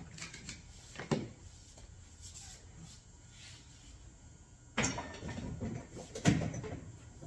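A few knocks and clatters from objects being handled and set down on a work surface: one about a second in, then a cluster of several near the end.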